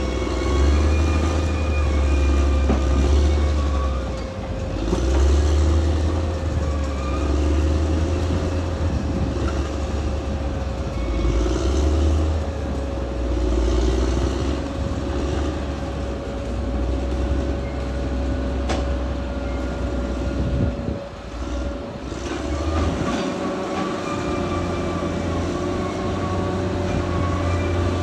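Caterpillar D6R XL bulldozer at work: its diesel engine running with a deep rumble and a steady whine, with squealing and clattering from the steel tracks. The rumble eases briefly about three quarters of the way in, then picks up again.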